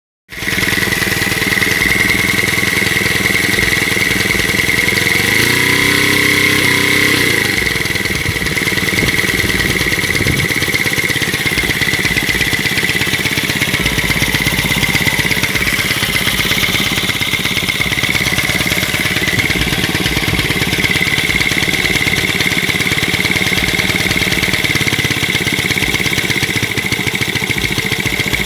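Small home-built four-stroke engine converted from a refrigerator compressor, running steadily with a constant high whine over it. Its pitch briefly rises and falls about six seconds in.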